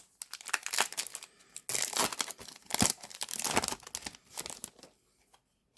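Foil booster-pack wrapper being torn open and crinkled in the hands, a series of crackling bursts over about four seconds.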